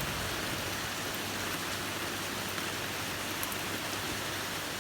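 Torrential rain pouring down steadily, an even hiss with a few faint drop ticks.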